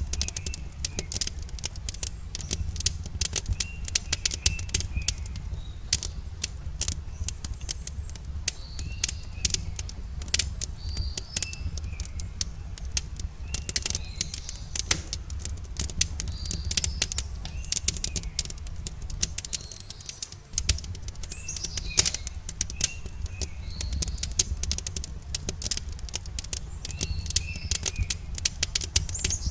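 Wood campfire crackling with many sharp pops over a steady low rumble, while small birds chirp repeatedly in short calls.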